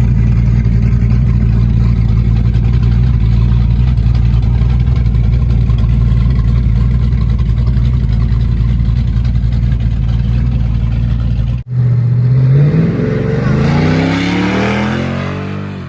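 A vehicle engine running loud and steady at a constant pitch. After a sudden cut about eleven and a half seconds in, an engine revs up with a rising pitch as the vehicle accelerates away, fading out near the end.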